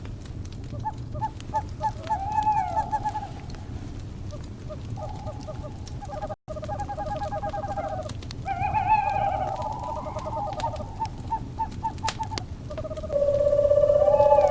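Owls calling in quavering, trilled hoots over the scattered crackle of a wood fire. A loud, steady trill begins near the end.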